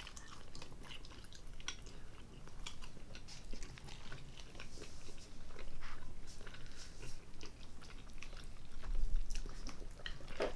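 Close-up eating sounds: chewing, with many small, wet mouth clicks, as pizza and rotisserie chicken are eaten. A dull low thump comes about nine seconds in.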